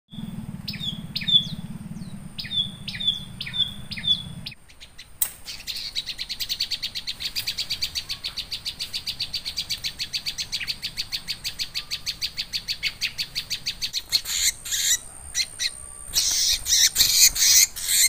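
Prinia (prenjak) calling: first a string of separate short falling chirps, then a fast, even run of rapid high chirps. Near the end come irregular loud flurries, the bird flapping its wings in the snare.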